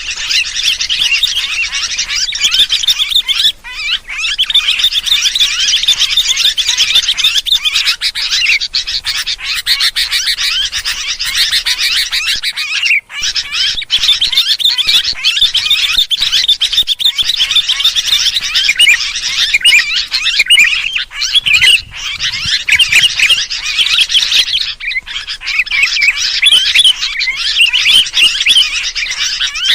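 Sooty-headed bulbuls (kutilang) giving noisy, agitated chattering calls: many rapid overlapping chirps in a continuous chorus, with brief breaks about 3.5 and 13 seconds in. This is the excited alarm chatter used as a lure to draw other birds in.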